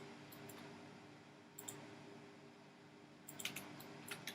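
Computer mouse clicking: a few quick single and double clicks, heard faintly over a low steady room hum.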